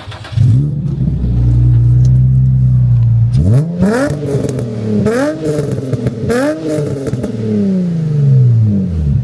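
Car engine firing up about half a second in and holding a steady fast idle, then revved in about four quick blips, each rising and falling in pitch, before dropping back down near the end.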